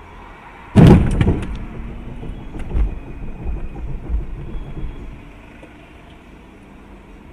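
Vehicle collision: a sudden loud bang of impact with sharp cracks just after, then a few seconds of uneven knocking and rumbling that dies away, over steady road noise.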